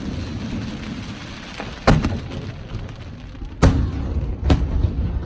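Aerial fireworks shells bursting: three sharp bangs, the last two close together, each trailing off in a low rolling echo, over a steady rumble of the display.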